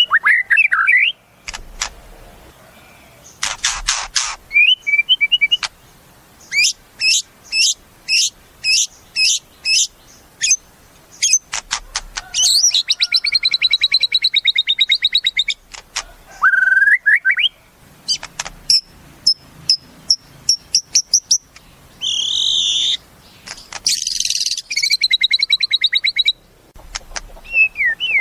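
White-rumped shama (murai batu) singing a loud, varied song. It mixes sharp notes repeated a few times a second, whistled glides, and long fast trills, with short pauses between phrases.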